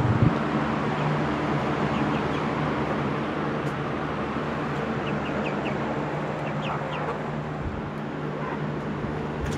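Chickens clucking and giving short high chirps over a steady hum of electric fans. A brief knock comes right at the start.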